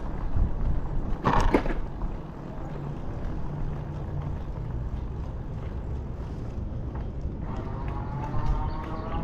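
Steady low rumble of riding along on a bicycle, with a short loud burst of noise just over a second in and a slowly rising whine that starts near the end.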